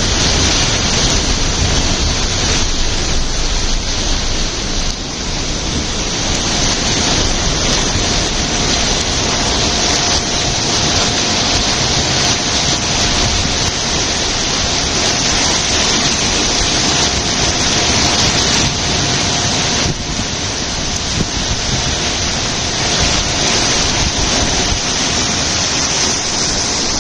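Whirlpool sucking water down a deep hole: a steady, loud rush of draining water.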